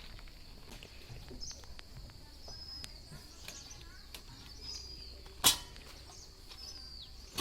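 Quiet outdoor ambience: a steady high-pitched hum with several short bird chirps over it, and one sharp knock about five and a half seconds in.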